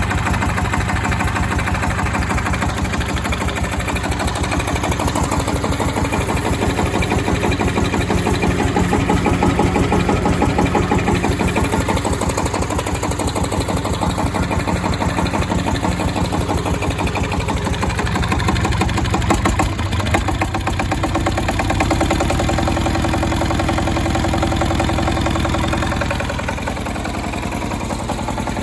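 SD1110 engine driving a generator under load, running steadily with even, rapid firing pulses. About two-thirds through there is a brief disturbance, after which the engine note changes and the sound falls slightly near the end.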